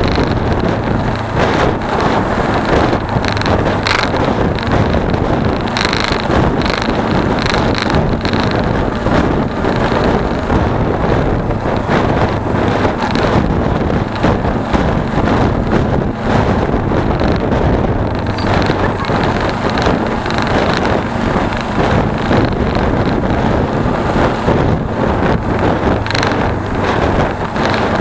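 Heavy wind noise rushing and buffeting over an action camera's microphone on a moving motorcycle, with a steady low hum from the Suzuki V-Strom 250's engine underneath.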